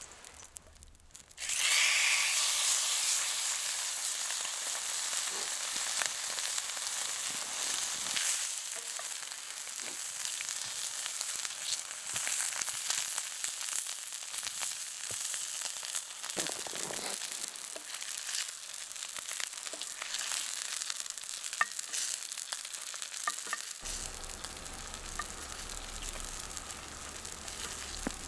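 A steady sizzling hiss with scattered small crackles, starting suddenly about a second and a half in.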